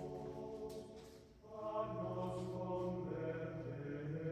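Soft background music of slow, held chords. It fades about a second in and swells back shortly after.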